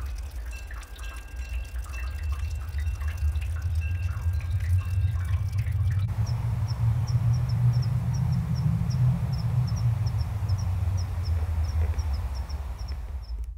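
Birds calling over a steady low rumble. Scattered short chirps give way, about six seconds in, to a thin high note repeated three or four times a second, then the sound cuts off near the end.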